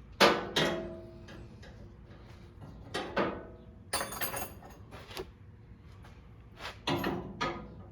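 Metal tools or parts clinking and knocking as they are handled: several separate knocks in small clusters, some with a short metallic ring.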